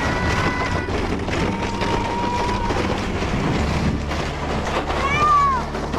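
Sled sliding fast over icy, crusted snow, a steady rough rumbling scrape. A short high voice call rises and falls near the end.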